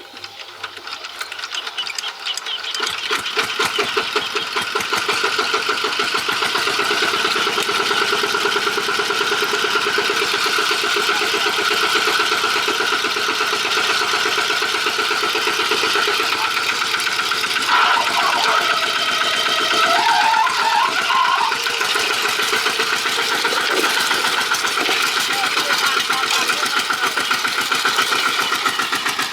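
Tractor engine running, rising over the first few seconds to a steady, rapid knocking beat that holds.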